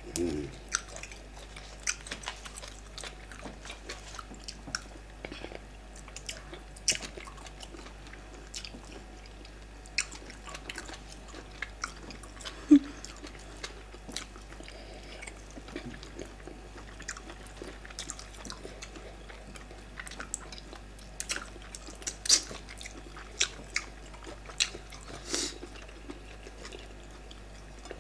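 Close-miked chewing and wet mouth smacks of two people eating yam fufu and bitter leaf soup by hand, with scattered short clicks and squelches throughout.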